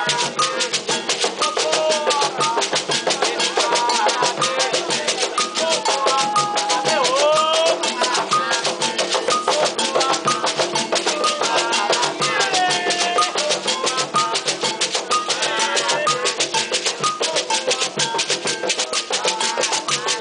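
Afro-Brazilian religious chant: a group singing over fast, steady hand-drum and bell percussion.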